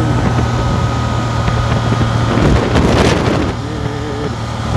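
Motorcycle engine running steadily at road speed with wind rushing over the microphone. About two and a half seconds in, a louder rushing swell rises and falls away within a second.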